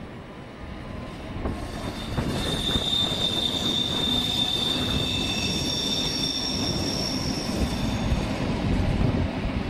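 Rhaetian Railway ABe 4/4 II electric railcar train rolling past on metre-gauge track with a steady wheel rumble. A high wheel squeal sets in about two seconds in and fades out near the end.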